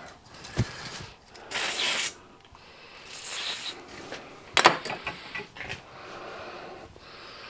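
Metal tools and parts being handled at a workbench: scattered clicks and clinks, with two short hissing bursts and a sharp clack about two-thirds of the way through.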